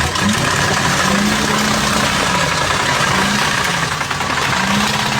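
Vehicle engine running under steady road noise, its pitch rising and falling several times.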